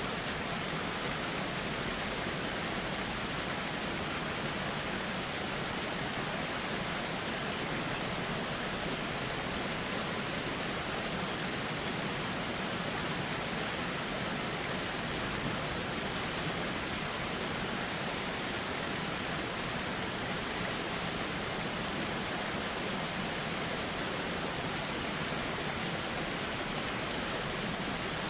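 River water flowing steadily, an even rushing hiss with no breaks or changes.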